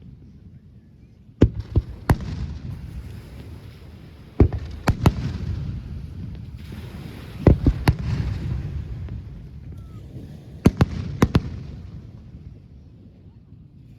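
Aerial fireworks bursting in clusters of two or three sharp bangs every few seconds, each group trailing off in a rumbling crackle. The bursts stop about 11 s in and the rumble fades.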